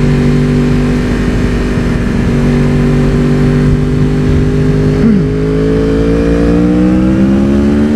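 Yamaha WR450F single-cylinder four-stroke engine running under way at a steady speed, its pitch rising gradually near the end as the bike speeds up.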